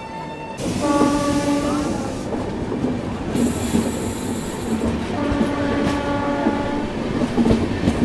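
Indian Railways passenger train running close alongside another train, wheels clattering on the rails. A train horn sounds twice, briefly about a second in and again for over two seconds past the middle, with a short hiss in between.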